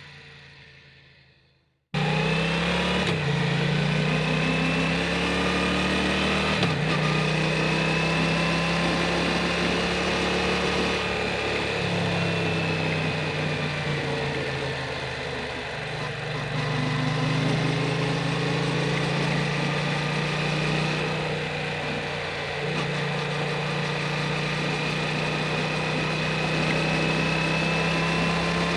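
Yamaha MT-07's parallel-twin engine through an Akrapovic titanium full exhaust, running steadily while the bike is ridden, its note rising and falling gently with the throttle and easing off twice. It cuts in suddenly about two seconds in, after a fade to near silence.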